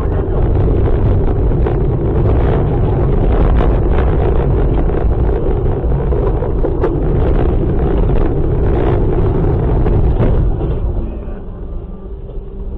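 Loud, steady rumble of vehicle and wind noise picked up by a dashcam's microphone, with scattered knocks throughout. It eases off somewhat about ten and a half seconds in.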